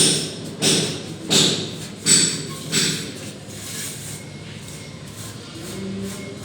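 A plastering trowel working plaster in five sharp, evenly spaced strokes, about one every two-thirds of a second, that stop about three seconds in.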